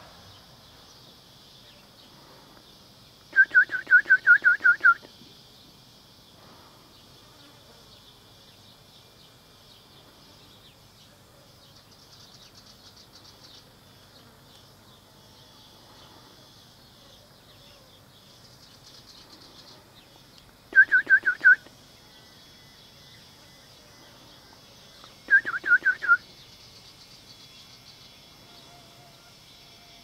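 A bird calls in three quick bursts of sharp repeated notes, about five a second: a longer run about three seconds in, then two short runs near the end. Under them runs the steady high drone of cicadas.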